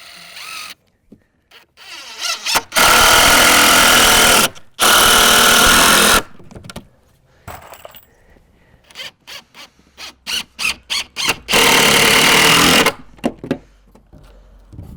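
Cordless drill running loudly in bursts: two long runs of about two seconds each, then a string of short quick trigger pulses, then another long run near the end.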